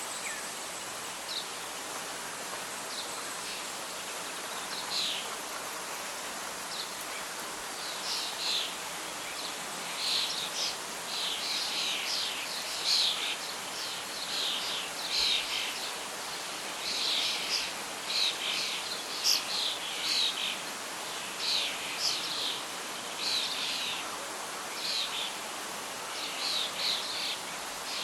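Birds singing over a steady hiss of wind and rustling leaves, with short high calls that are sparse at first and come thick and fast from about a third of the way in.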